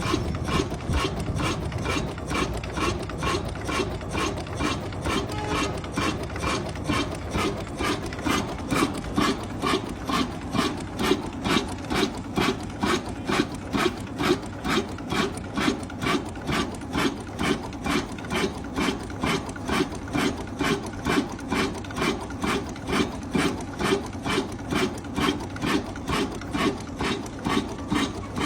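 Old diesel engine running at a slow, even pace, with a regular beat of about two to three strokes a second over a low rumble.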